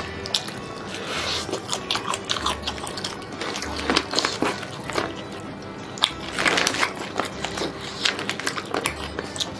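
Close-up crunching and chewing of crispy food from a plate of nasi Padang, many sharp bites in a row, over background music with a low bass.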